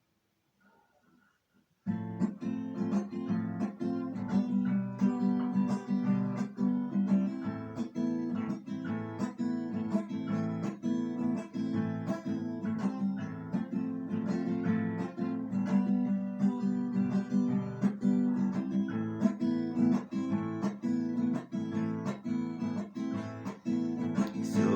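Acoustic guitar strummed in a steady rhythm, playing the song's introduction. It starts about two seconds in.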